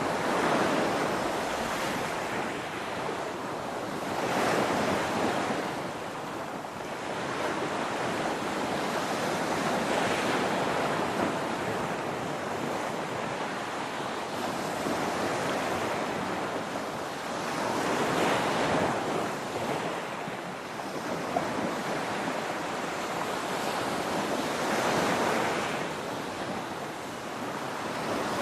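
Ocean waves crashing, each swelling up and dying away every several seconds over a steady wash of surf.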